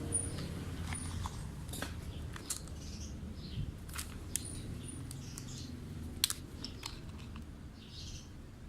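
Plastic food packets crinkling and clicking as they are handled, in scattered sharp crackles, with birds chirping faintly in the background.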